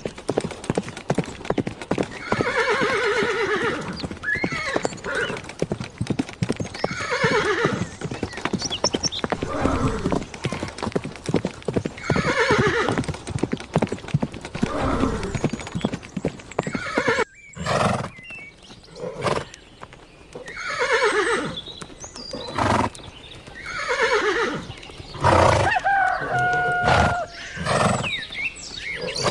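Horses whinnying again and again, each call falling in pitch, with hooves clopping on hard ground.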